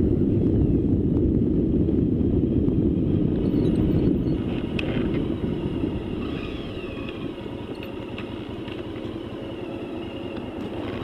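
Riding noise from a bike on the move: a heavy, even wind rumble on the microphone that eases off about four seconds in, leaving a quieter vehicle sound with faint whining tones.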